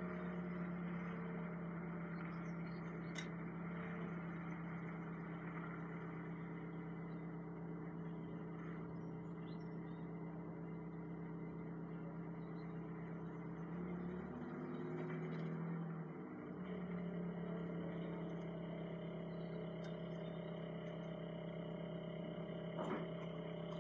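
Truck engine running, heard from inside the cab: a steady hum whose pitch drops and climbs back about fifteen seconds in.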